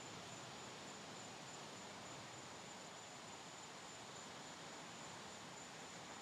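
Faint, steady hiss of distant ocean surf, even in level with no single wave breaking out of it, under a thin high-pitched steady tone.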